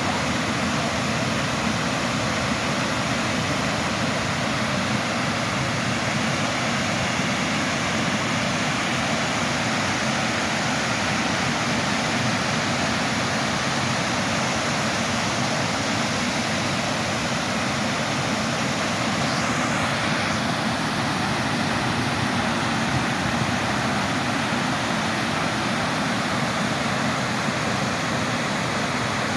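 Waterfall: the steady rush of falling water, unbroken and even in level.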